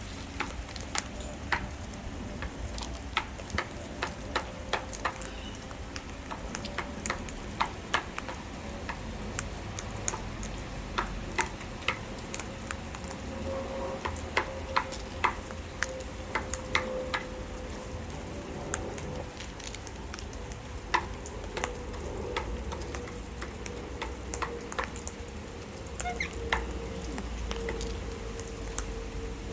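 Light rain pattering, with many irregular sharp taps and clicks throughout, over a faint steady hum that grows a little stronger near the end.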